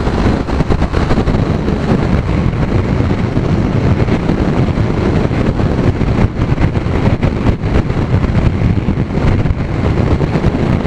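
Strong wind rushing and buffeting over the microphone of a Kawasaki Z900 riding at speed into a headwind, the motorcycle running underneath it.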